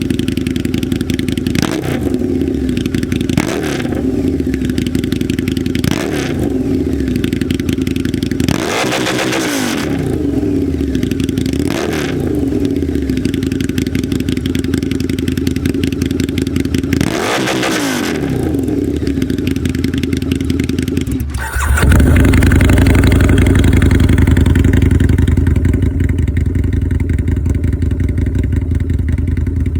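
2006 Harley-Davidson Night Rod's liquid-cooled Revolution V-twin, breathing through a Danmoto Highwayman 2-into-1 aftermarket exhaust, idling with about six sharp throttle blips, the revs falling back after each. About two-thirds of the way through the sound turns suddenly louder and rougher, with a heavy low rumble.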